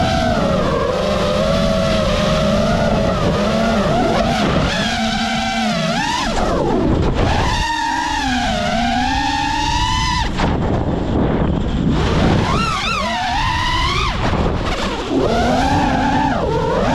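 iFlight Nazgul5 V3 5-inch FPV quadcopter's motors and Ethix Peanut Butter and Jelly propellers whining, the pitch swinging sharply up and down as the throttle is punched and chopped, over a low rumble. The pitch drops deeply twice and wobbles quickly near the end.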